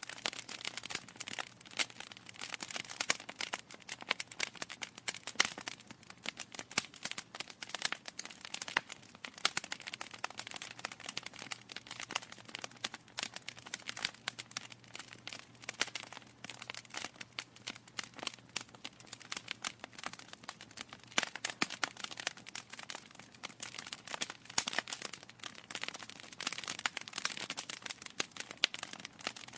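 Wood fire burning in a fireplace, logs crackling with a dense, irregular stream of sharp pops and snaps over a soft hiss.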